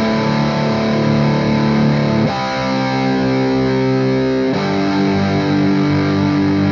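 Distorted electric guitar playing three sustained open chords, each struck once and held, with the changes about a third and two thirds of the way through. The first two chords are held for a count of seven and the last for a count of eight, to show the feel of an odd time signature.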